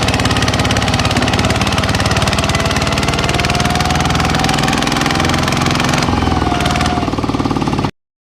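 Small tractor's engine running with a rapid, even beat of firing strokes, cutting off suddenly near the end.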